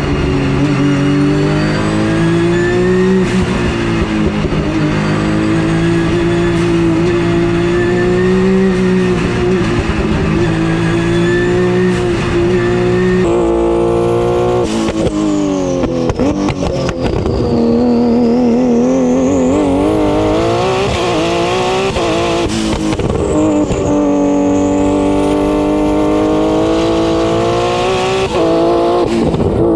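Porsche GT3 Cup race car's flat-six engine running hard on a hill climb. The pitch holds fairly steady at first. About 13 s in, the engine note begins to rise and fall sharply as the revs climb and drop through the gears.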